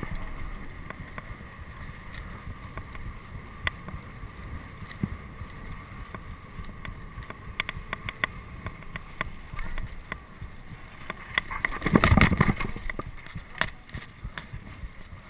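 Wind buffeting a moving microphone, with many sharp clicks and rattling knocks, and a loud rush of noise about twelve seconds in.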